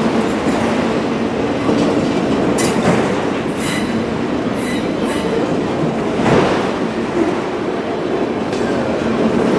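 Empty autorack freight cars rolling past in a steady rumble, with wheels clicking over rail joints several times and brief high wheel squeals.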